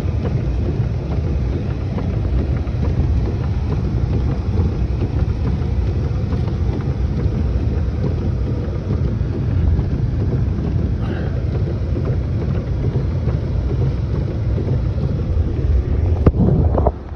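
Wind buffeting the phone's microphone in a snowstorm, a steady low rumble, with a few sharp knocks near the end.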